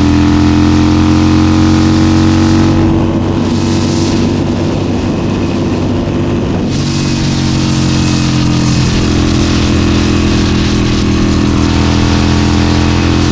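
Harley-Davidson Forty-Eight's air-cooled V-twin running through an aftermarket exhaust while cruising. About three seconds in, its steady note loosens and drops a little for about four seconds, then picks up steady again.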